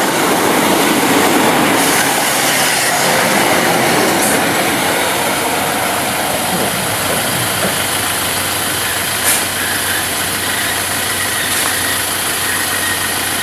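Diesel multiple unit running on the line: steady diesel engine and rail noise, easing a little after the first few seconds, with a low hum underneath later on.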